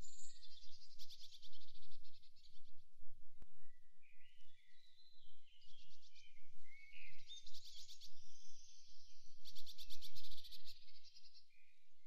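Several songbirds singing over one another, with repeated rapid trills, over a low, uneven background rumble.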